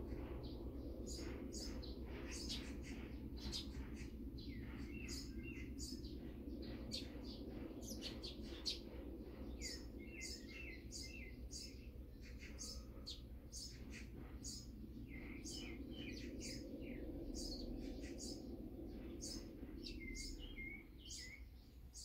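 Small birds chirping, many short high calls in quick succession, over a steady low background hum.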